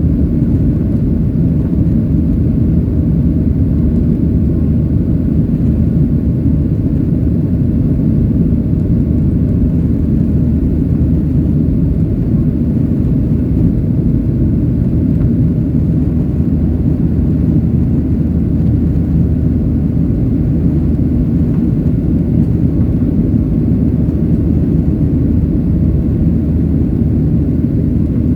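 Boeing 737-800's CFM56-7B jet engines running at steady power: a loud, even low rumble that does not rise or fall.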